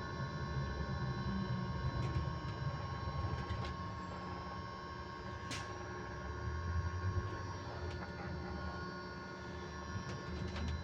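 Inside a battery-electric bus on the move: a steady whine held at a constant pitch, over low road rumble, with one sharp click about halfway through.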